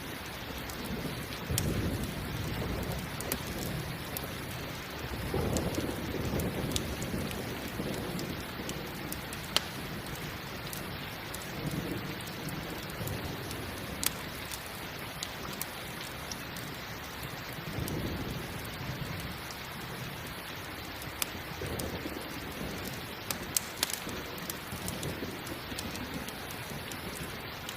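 Steady heavy rain with thunder rumbling low several times, the swells coming and going. A few sharp pops stand out above the rain.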